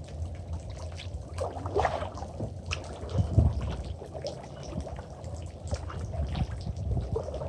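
Kayak paddle strokes splashing and dripping in river water, a few louder splashes among them, over a steady low rumble on the microphone.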